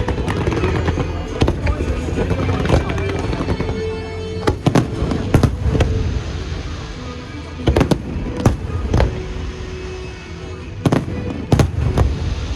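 Aerial fireworks bursting in a series of sharp bangs, several coming in quick clusters, over loud background music.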